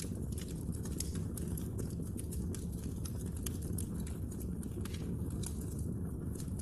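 Wood fire burning in a fireplace: a steady low rumble of flames with frequent, irregular sharp crackles and pops of burning wood.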